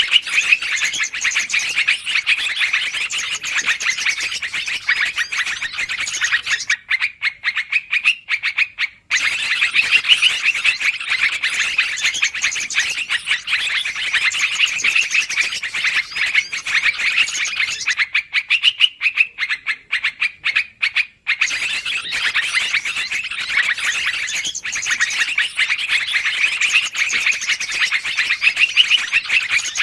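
Yellow-vented bulbuls (trucukan) chattering noisily in a long, dense run of rapid calls, with two brief lulls of sparse ticking notes, about seven and eighteen seconds in.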